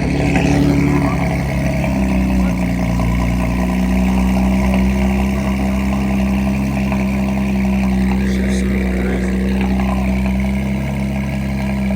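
A car engine running steadily nearby, holding one low pitch with no revving.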